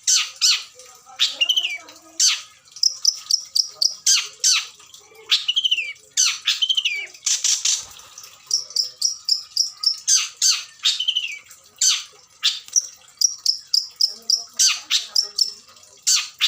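Long-tailed shrike singing a varied song of harsh downward-sweeping squawks, slurred falling whistles and quick runs of high chips at about six notes a second. The song is packed with mimicked phrases of other birds.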